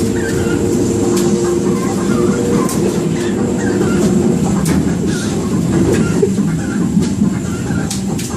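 Passenger train running, heard from inside a carriage: a steady rumble and hum, with a few sharp clicks of the wheels over rail joints.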